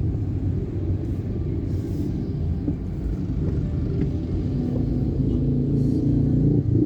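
Motor vehicle engine and road rumble, steady and low, with the engine note rising and growing louder near the end as it speeds up.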